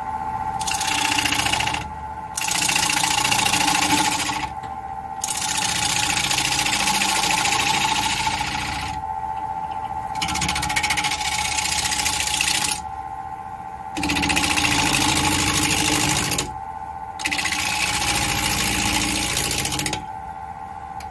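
Wood lathe running with a steady hum while a turning tool cuts the spinning black walnut in about six loud passes of a few seconds each, with short pauses between.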